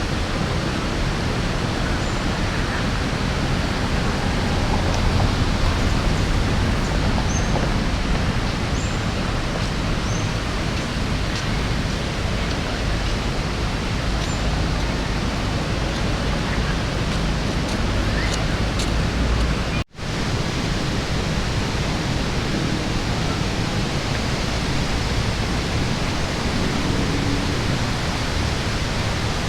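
Steady rush of fast-flowing water from a waterfall stream swollen by rainy-season rain. It cuts out for an instant about twenty seconds in, and a few faint high chirps sound over it in the first half.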